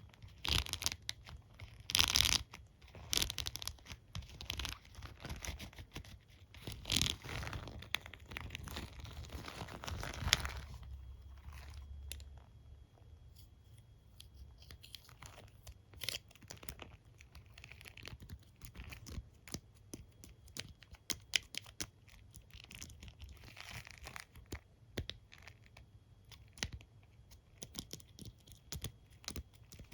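A hairbrush and comb being scratched and rubbed close to the microphone, in loud rough strokes, for about the first ten seconds. After that come many quick, sharp tapping clicks on them.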